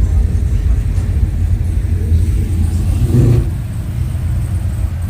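A car engine running with a deep, steady low rumble, swelling briefly a little over three seconds in.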